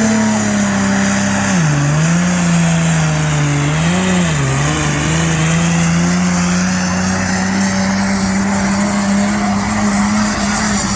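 Turbocharged diesel pulling tractor at full throttle, hauling a weight-transfer sledge. Its engine note drops twice under load in the first few seconds, then holds steady, with a high turbo whistle above it.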